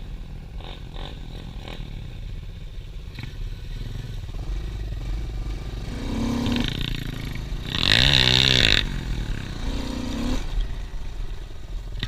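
Pit bike engine running, revved up and down several times in the middle stretch, loudest with a wavering rise and fall in pitch about eight seconds in.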